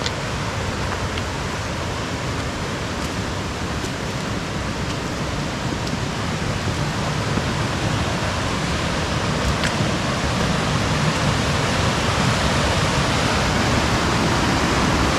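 Waterfall: a steady rush of falling water that grows slowly louder.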